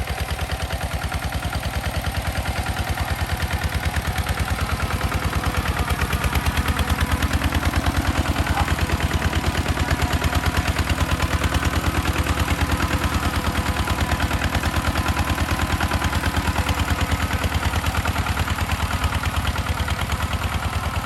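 Tractor engine running steadily with a rapid, even chugging of about ten beats a second, a little louder in the middle.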